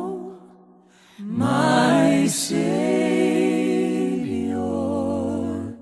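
Unaccompanied voices singing a hymn in close harmony with vibrato. A held chord fades out, and after a short pause a new chord is sustained for several seconds, its bass line stepping down near the end.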